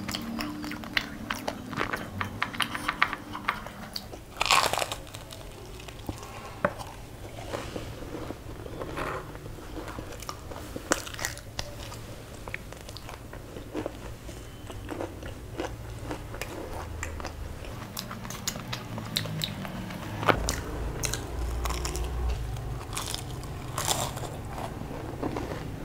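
Close-up biting and chewing of a crisp fried samosa and a green chilli: irregular crunches and wet mouth clicks.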